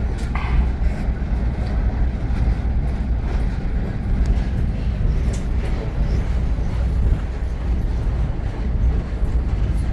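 Steady low rumble of a moving Reading & Northern passenger train heard from on board, the railcar running over the track, with a few faint clicks through it.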